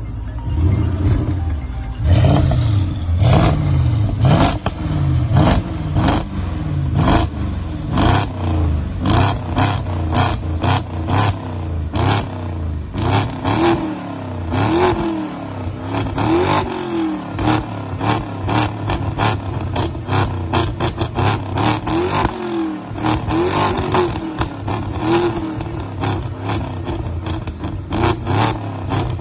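BMW X5 50i twin-turbo V8, fitted with downpipes and a full valved exhaust, revved over and over in short blips, each one rising and falling in pitch about once a second. Sharp cracks from the exhaust come between and through the revs.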